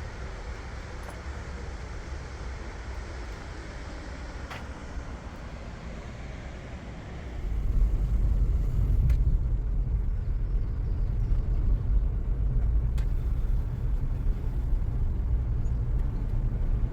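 Car driving, with a steady low road rumble that jumps louder about seven seconds in.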